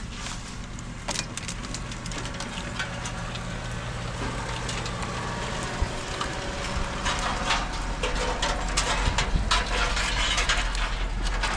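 Jeep Wrangler JK crawling slowly along a wooded off-road trail, its engine running low and steady under a stream of sharp clicks and cracks that grow thicker and louder in the second half.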